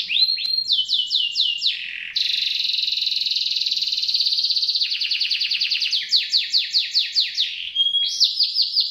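Canary singing a continuous song. It runs through fast buzzy trills and runs of quick down-sweeping notes about five or six a second, with a short steady whistle near the end.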